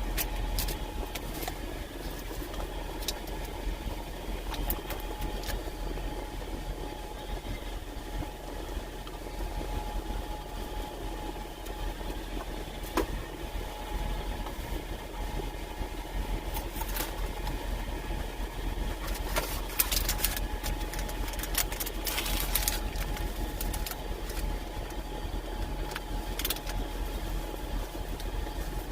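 Diesel engine of a semi truck idling steadily, heard from inside the cab, with scattered clicks and a brief burst of rustling and handling noise about two-thirds of the way through.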